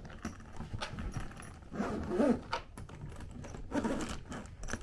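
Clicking and rustling of things being handled, with brief snatches of a voice about two seconds in and again near the end.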